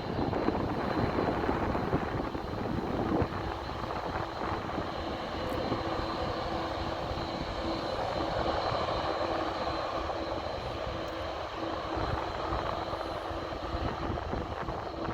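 Airbus A321neo jet airliner's engines at takeoff power: a steady jet rumble with a held humming tone coming in about three seconds in, over wind buffeting the microphone.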